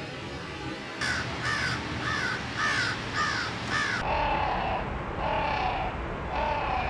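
A bird calling repeatedly: a quick series of short calls that rise and fall in pitch, about two a second, then, after an abrupt cut about four seconds in, a lower, slower series of similar calls, like the same calls slowed down.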